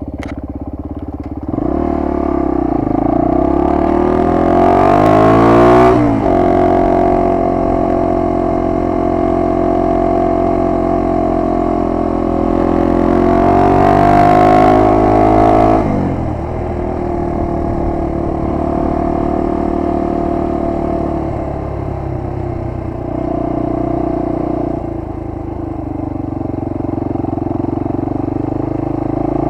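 1998 Honda XR250R's air-cooled single-cylinder four-stroke engine pulling the bike along a road. Its revs climb twice, each time falling away sharply as the rider shifts up, and then it runs at a steadier cruise.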